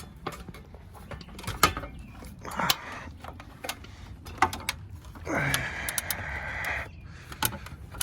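Irregular clanks and clicks of someone climbing an extension ladder with hand tools, with a longer scrape about five seconds in that lasts a second and a half.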